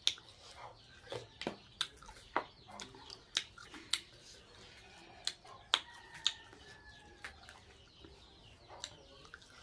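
Close-up eating sounds of a person chewing chicken and rice with her mouth: irregular sharp, wet mouth clicks and lip smacks, about two a second.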